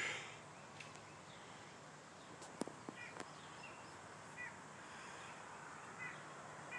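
Faint, short bird chirps, several scattered through a quiet outdoor background, with a couple of light clicks.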